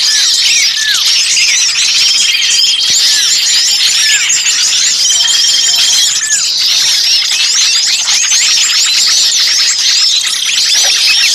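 A dense, noisy chorus of many small birds chirping and calling over one another, with short trills and falling whistled notes every second or two among the rapid high chirps. It is a bird-lure recording of small birds calling in alarm as if one were caught ('ribut kejepit'), used to draw in other birds.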